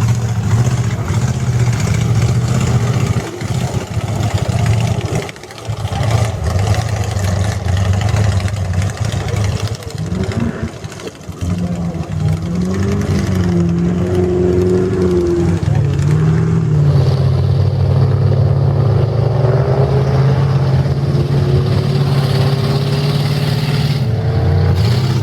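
Mud truck engine running hard under load, its pitch swinging up and down around the middle, then climbing steadily over the last several seconds.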